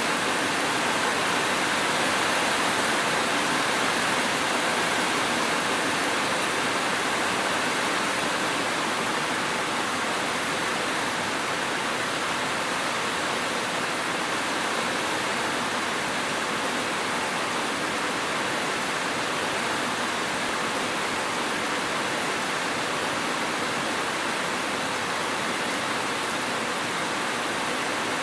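Steady heavy rain falling as a continuous even hiss, with no thunder and no separate drops standing out.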